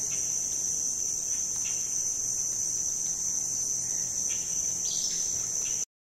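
Crickets chirping in a steady high-pitched chorus, with a few faint short chirps over it. The sound cuts off suddenly near the end.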